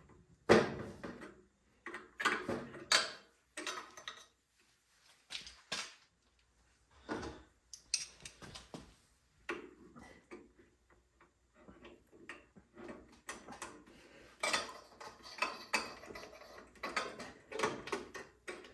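A wrench and small metal parts clinking and clattering in irregular bursts as the 12 mm nuts holding the carburetor are worked off a Tecumseh 5 hp engine. The loudest clank comes about half a second in.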